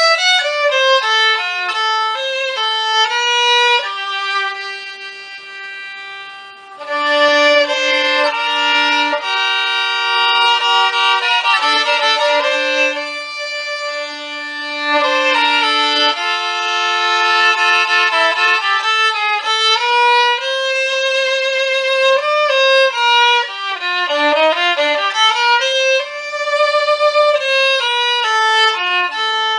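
Solo violin, an inexpensive Chinese-made one, bowed through a slow melody of held notes one at a time. It dips softer for a moment about five seconds in.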